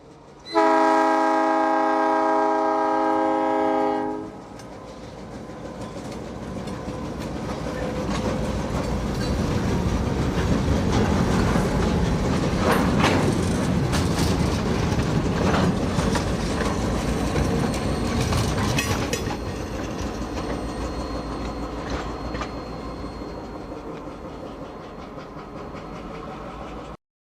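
A freight locomotive's horn sounds one chord lasting about three and a half seconds. Then the train rolls past, its wheels clacking over the rail joints, building to a peak midway and fading before the sound cuts off abruptly near the end.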